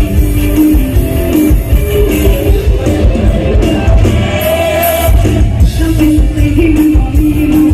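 Live Isan mor lam band music: a steady heavy bass-drum beat under a singer's voice.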